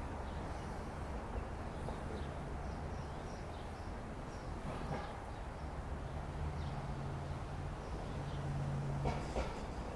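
Outdoor park ambience: a steady low rumble of distant traffic, with short, high bird chirps. A low engine hum comes in around the middle and fades near the end, with a few sharp clicks.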